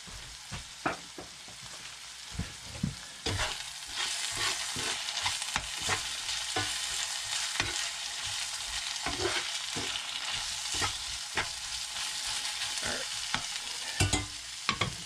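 Shredded hash potatoes sizzling in a cast iron skillet while a metal spatula stirs and scrapes them, with frequent clinks of the spatula against the pan. The sizzle grows louder about three seconds in.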